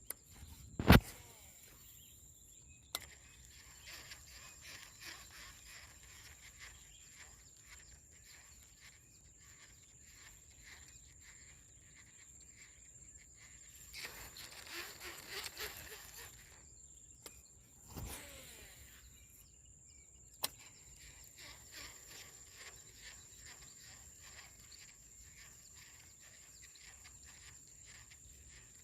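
Insects droning in one steady high tone over quiet outdoor ambience. A single sharp loud knock comes about a second in, then a few fainter clicks and a couple of short noisy rushes midway.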